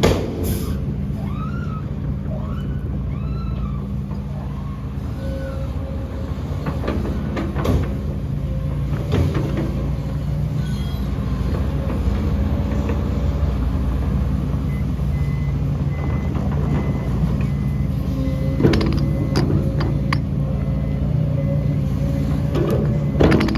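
Heavy diesel earthmoving machinery running steadily, with a few sharp knocks. A reversing alarm beeps evenly through the last third.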